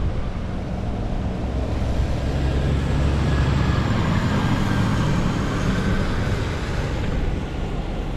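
A vehicle passing in the street: a low rumble that builds to its loudest about three to four seconds in and then fades away.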